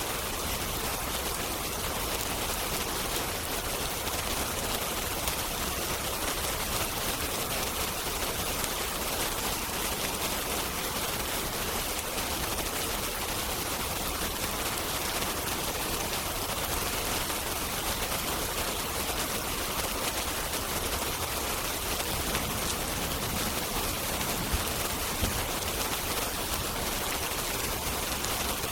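Steady rain, an even hiss that does not change, with a couple of brief pops about 24 seconds in.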